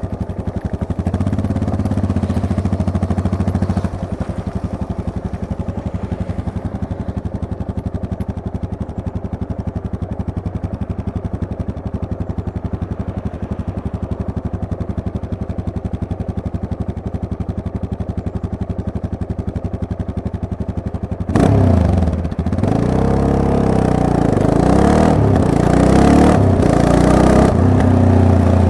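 Yamaha MT-03 motorcycle engine running steadily at low revs, then about 21 seconds in it gets suddenly louder and the revs rise and fall repeatedly as the bike accelerates.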